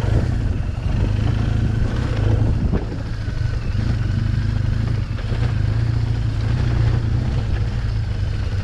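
BMW R 1200 GS boxer-twin engine with an SC Project exhaust running steadily under way, heard from the rider's position along with rushing air.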